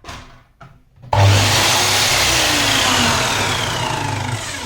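Electric sliding mitre saw's motor switched on about a second in, running loud for a couple of seconds, then winding down with a falling whine after the trigger is let go.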